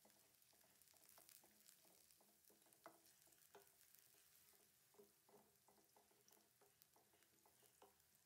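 Faint sizzle of sliced onions frying in oil in a stainless steel kadai, with a wooden spatula scraping and knocking against the pan as it stirs them. The knocks come in quick, irregular succession, the loudest about three seconds in.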